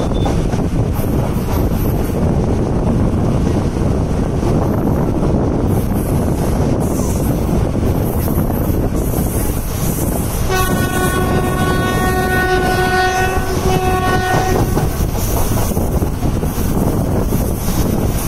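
An Indian Railways express train running along the track, heard from aboard its coach as steady loud running noise from the wheels and carriages. About ten seconds in, a train horn sounds one long blast of several tones lasting about four seconds.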